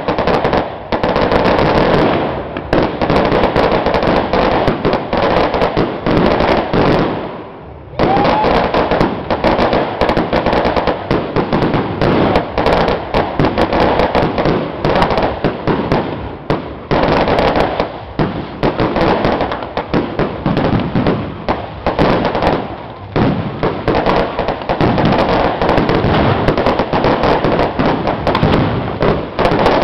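Firecrackers going off in a long, rapid string, a dense continuous crackle of pops with a short lull about a quarter of the way through.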